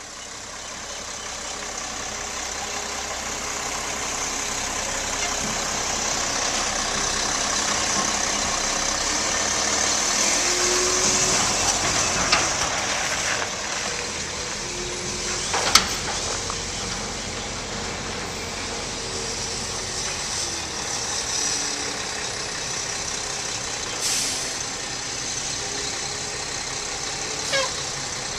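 2007 Mack LE613 refuse truck's diesel engine running steadily, with a strong hiss over it that builds over the first several seconds. A handful of short sharp clicks cut through, the sharpest about halfway through.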